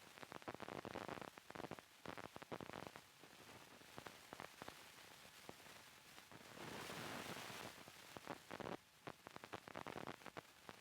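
Faint crackling and rustling made of many small irregular clicks, with a short swell of hiss about seven seconds in.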